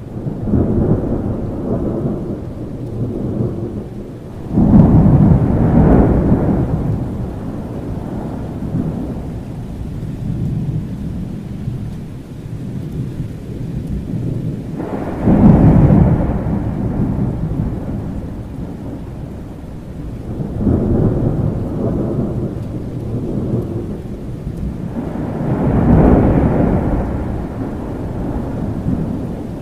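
Steady rain with rolling thunder: several deep rumbles swell and die away, the loudest two starting suddenly about five seconds in and about fifteen seconds in.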